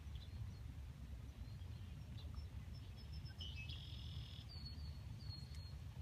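Faint high bird chirps and short calls, starting about halfway through and ending near the close, over a steady low rumble.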